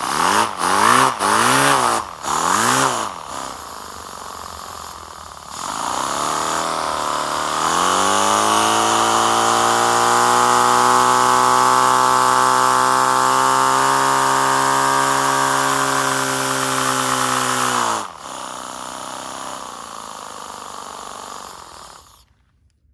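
Paper flat-twin air engine running on compressed air, its pitch rising and falling in pulses about once a second at first, then spinning up to a steady high speed. About 18 seconds in its pitch drops suddenly and it runs lower until it stops near the end.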